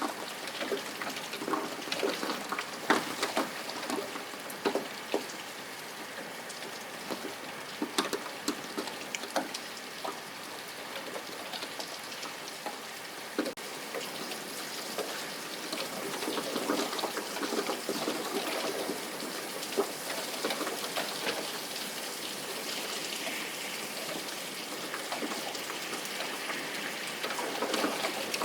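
Rain falling steadily, with individual drops striking a nearby surface in sharp ticks, thickest in the first half.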